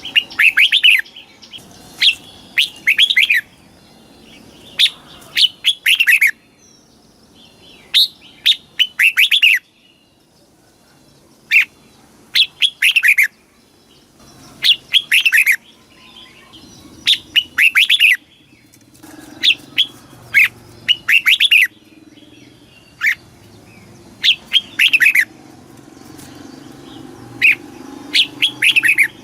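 Red-whiskered bulbul singing: short, bright phrases of a few quick, slurred notes, repeated every second or two with brief pauses.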